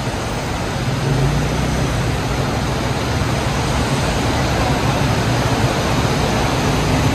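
A car engine running steadily with a low hum that firms up about a second in, driving a makeshift river-crossing cable lift through its front wheel hub. A fast white-water river rushes as a constant hiss.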